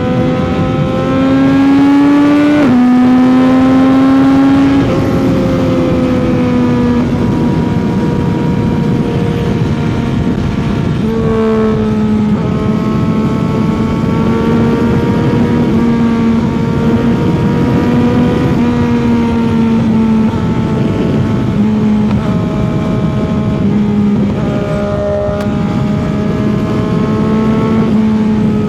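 CFMOTO 675's inline three-cylinder engine accelerating, with an upshift about two and a half seconds in, then pulling again. It then holds steady cruising revs with small throttle changes, over a steady rush of wind.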